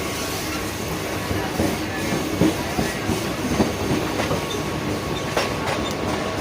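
Mumbai suburban local electric train running in, with a dense rumble, irregular knocking of wheels over the rail joints and a thin steady whine.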